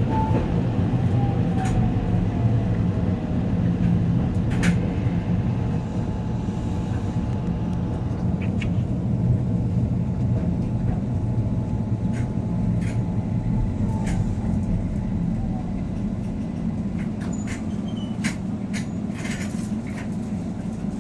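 Keihan 800 series metro-type train running slowly through a station, heard from inside the driver's cab: a steady low rumble with a faint electric motor whine falling in pitch as the train slows, and scattered clicks and knocks from the wheels over the track.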